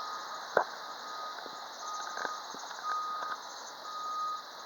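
An electronic beeper sounding a single steady tone in short beeps about once a second, over a background hiss, with a sharp knock about half a second in and a few fainter clicks.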